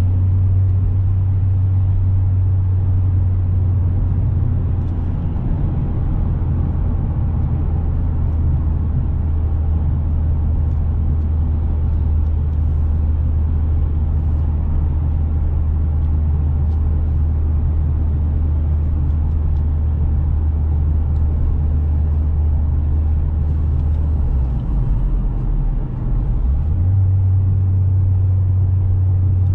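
Inside the cabin of a 2007 Opel Astra OPC at cruising speed: its 2.0-litre turbocharged four-cylinder gives a steady low drone under road noise. Around 25 seconds in the drone drops away for a couple of seconds during a gear change, then comes back.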